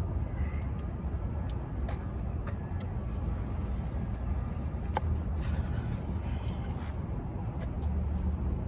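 Steady low rumble of a vehicle engine running, with a few faint light clicks over it.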